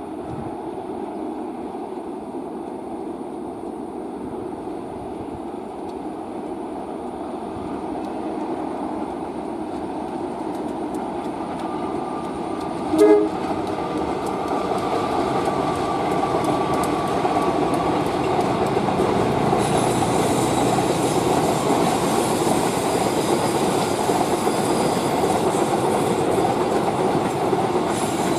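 A train drawing closer, its rumble slowly growing louder, with wheels clicking over the rail joints. About 13 seconds in there is one short horn blast.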